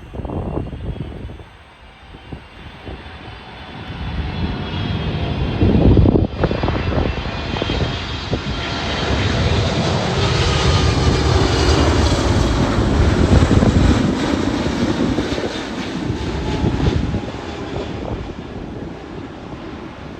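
Boeing 777 twin-engine jetliner passing by: a jet rumble with a high turbine whine builds over several seconds, stays loud through the middle, then eases off toward the end.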